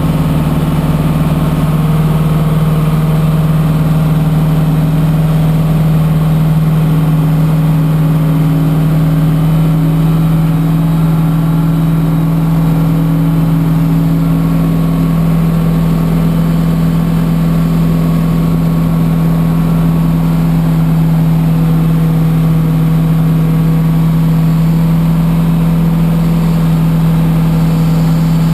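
Aircraft pushback tug's engine running steadily under load as it pushes a Boeing 777 back, a constant loud hum with a slight shift in tone about halfway through.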